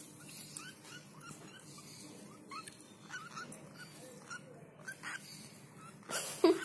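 Baby lovebird chicks peeping: a run of short, thin, upward-sliding cheeps repeated every fraction of a second. A louder, harsher burst comes near the end.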